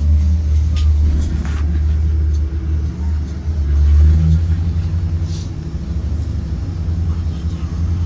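Blue Bird Vision school bus under way: a steady low engine drone, swelling briefly about halfway through, with a few light rattles in the first couple of seconds.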